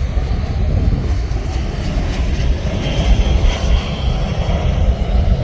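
Jet airliner engines running, a steady rumble with a faint high whine coming in about three seconds in.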